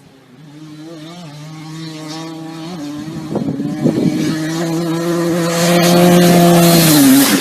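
Motocross bike engines running at high revs with a steady, buzzing pitch, growing steadily louder as the bikes come closer, with a few clatters about halfway through.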